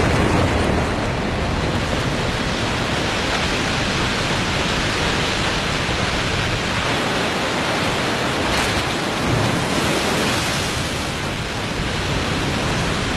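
A 35-metre waterfall in spring breakup, with meltwater thick with mud and broken ice pouring over it in a steady, dense rush.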